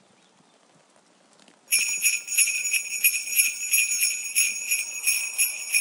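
Near silence, then a little under two seconds in, sleigh bells start jingling in a steady, regular shaking rhythm.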